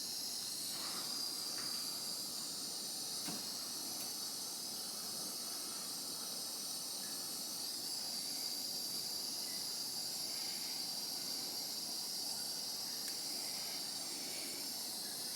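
Gas torch flame hissing steadily as it heats an engine case bolt to break it free.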